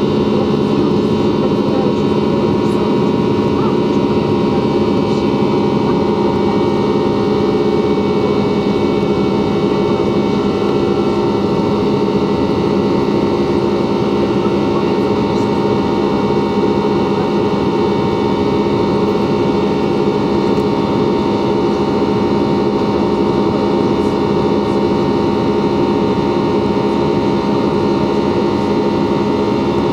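Steady cabin noise of an Ilyushin Il-96-300 airliner, its four PS-90A turbofans and the airflow making a constant rushing drone with several steady hum tones underneath, unchanging in level.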